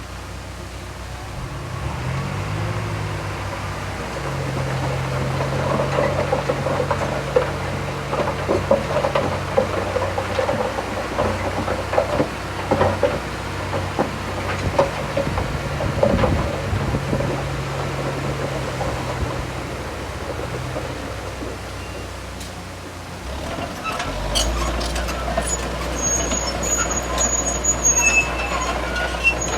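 Heavy diesel earthmoving machinery at work: an engine running steadily with repeated irregular metal knocks and clanks. About three-quarters of the way through, the sound changes to a lower, heavier engine note.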